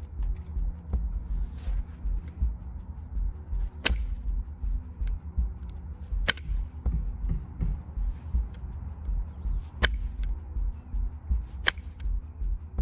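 Background music with a pulsing low beat, over which four sharp clicks sound at uneven intervals as flakes are struck off a limestone point during knapping.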